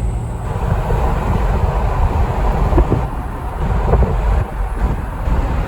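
Car driving along a road: a steady low rumble of tyre, road and engine noise.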